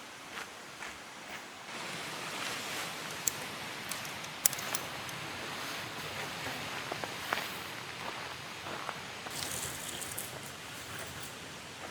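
Rustling handling noise with a few sharp clicks, the loudest about four and a half seconds in.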